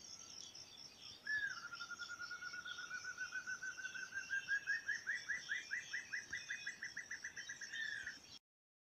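A bird's long trill, starting about a second in: it dips, then climbs slowly in pitch, its notes growing more distinct and upswept, over a steady high-pitched insect chorus. All sound cuts off suddenly near the end.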